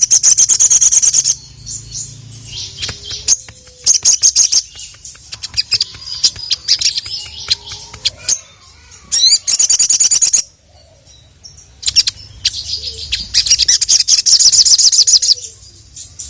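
A sogon (sogok ontong) sunbird singing its full song. It gives loud bursts of rapid, high, evenly repeated trilling notes in four main phrases, with scattered short chirps between them.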